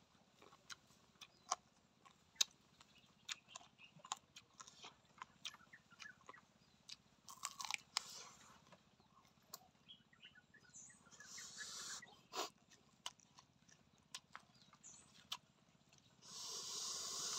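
A person eating spicy chicken feet salad: many short, sharp crunching and smacking clicks of chewing, with a few breathy hisses, the longest and loudest near the end.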